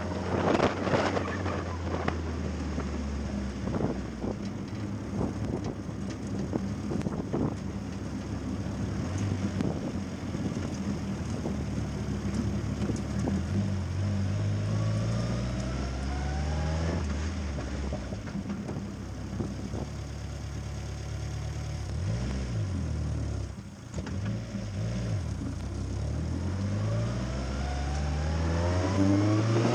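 Turbocharged Mazda 1.8 BP four-cylinder engine in a lightweight kit car under way, revving up through the gears several times with a long, loud pull near the end. Sharp cracks come through over the first several seconds.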